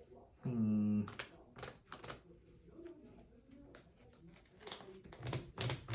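Trading cards being handled and laid down on a table: a series of sharp clicks and slaps, most of them near the end. About half a second in, a man sings one short held note.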